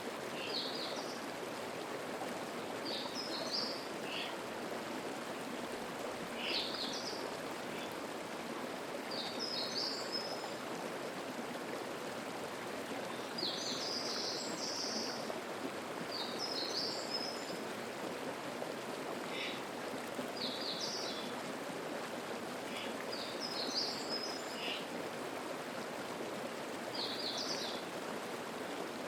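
Mountain stream babbling steadily, with a small bird singing short, high phrases about every two to three seconds over it.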